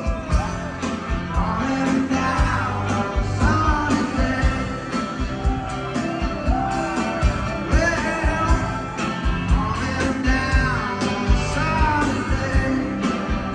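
Rock song with a male voice singing over a band, with a steady drum beat.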